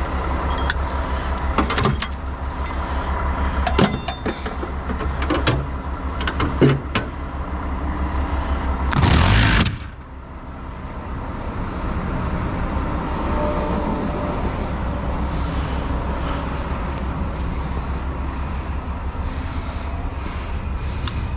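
Heavy diesel truck engine idling with a steady low rumble, several sharp metallic clanks in the first few seconds, and a loud short hiss of air about nine seconds in.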